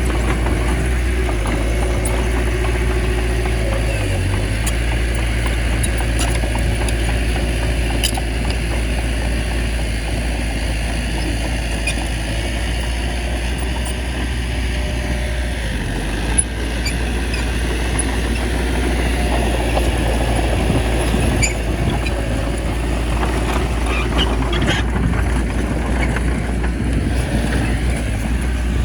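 Bulldozer's diesel engine running steadily under load, a constant low drone, with a few light clanks.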